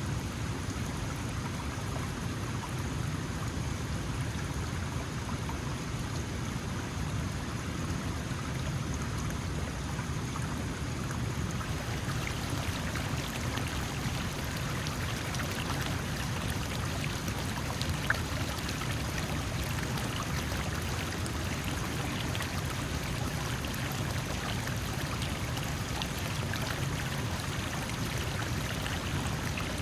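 Small mountain stream flowing steadily over rocks: a continuous low rumble with trickling and splashing, the fine splashes a little busier after the first third. There is one brief sharper click about midway.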